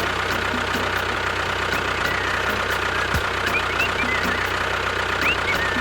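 Tractor engine idling steadily with an even knocking beat. A few short high chirps come in over it in the second half.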